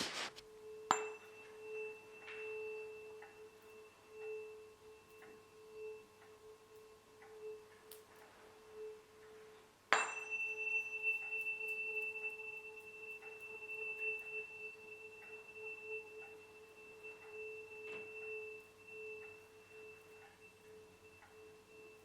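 Tuning forks ringing with a steady, sustained tone that wavers in loudness. A fork is struck about a second in and again about ten seconds in, the second strike adding a high ringing overtone above the main tone.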